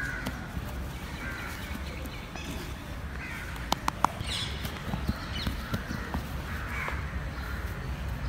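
Birds calling repeatedly over steady outdoor background noise, with a couple of short sharp knocks around the middle.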